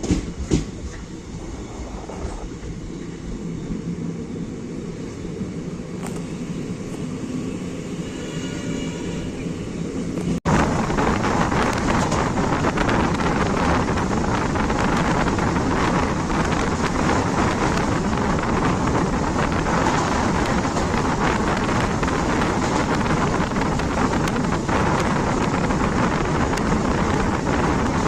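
Passenger train running on the rails, heard from on board: a low rumble at first, then, after an abrupt change about ten seconds in, a louder steady rush of wheel and wind noise.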